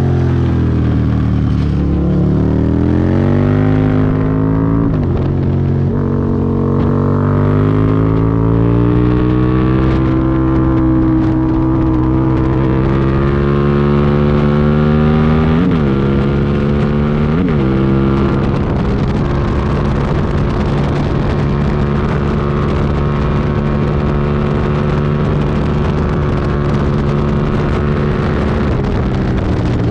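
Aprilia Tuono V2 1000 V-twin engine under way. Its pitch falls at first, then climbs steadily over several seconds, with brief quick dips about 5 s in and twice near the middle. After that it settles to a steady, even note.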